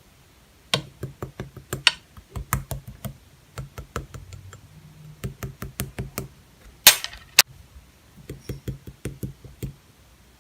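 Clear slime being squished and poked by hand, making a run of sharp clicking pops at an uneven pace, with a louder crackling burst about seven seconds in.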